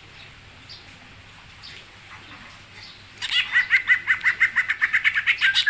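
A songbird singing: a few faint chirps, then about three seconds in a fast, loud run of repeated short chirps, roughly six a second.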